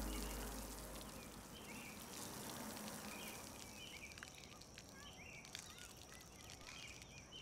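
Faint outdoor daytime ambience: small birds chirping several times over a soft steady hiss, with background music fading out in the first second.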